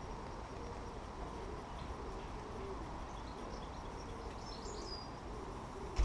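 Birds at a feeder: low calls repeating throughout, with a few high chirps and a short whistle about four to five seconds in, over a steady low rumble. A knock comes right at the end.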